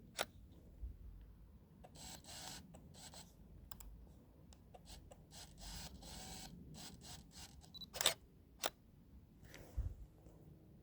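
Canon EOS 1200D DSLR shutter clicking: one sharp click right at the start and two more near the end, less than a second apart. Soft rustling of handling in between.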